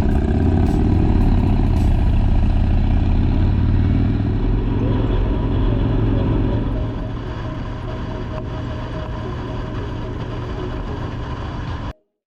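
Motorcycle engine running on the road, a steady low rumble that drops in level about seven seconds in and cuts off abruptly just before the end.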